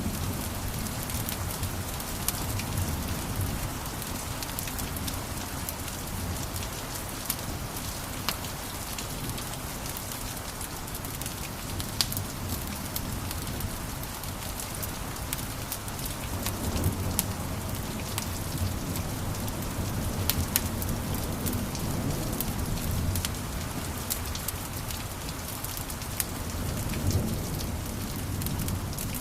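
Wood fire crackling in a fireplace: scattered sharp pops and snaps over a steady hiss and a low rumble of the flames.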